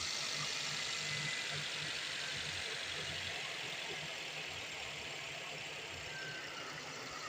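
Toyota Corolla engine idling: a steady hiss over a low, patchy rumble.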